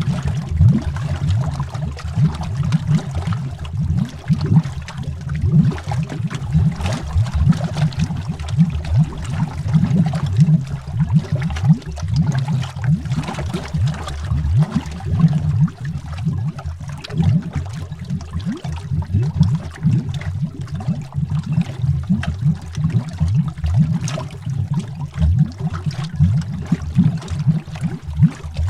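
Underwater bubbling: a continuous stream of low, gurgling bubbles rising through water, dense and irregular, heard as if from below the surface.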